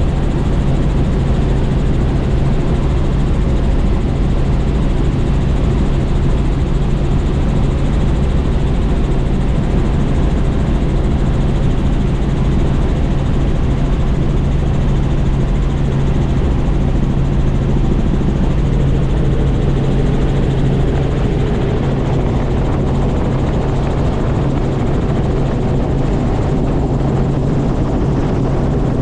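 Small tour helicopter in flight: steady rotor and engine noise with a constant low drone.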